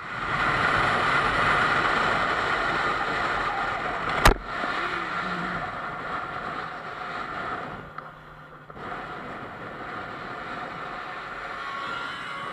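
Steady road and wind noise of a moving car, broken about four seconds in by one sharp, loud bang of a collision.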